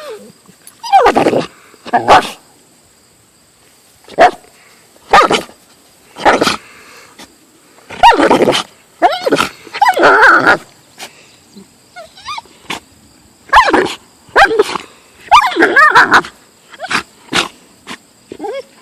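Husky growling and barking in a string of short, pitched, wavering bursts with pauses between them, an agitated dog's protest at a golf club.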